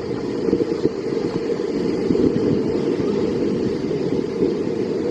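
Steady, muffled rumble of rushing water around a river-rapids raft, with the low noise of water and wind buffeting the microphone.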